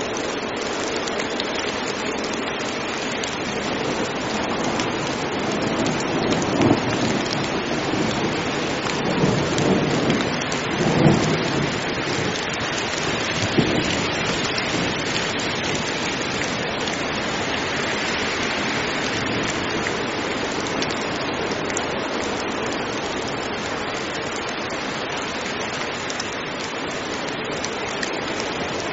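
Heavy rain falling steadily in a thunderstorm, with thunder rumbling from about six seconds in to about fourteen seconds in.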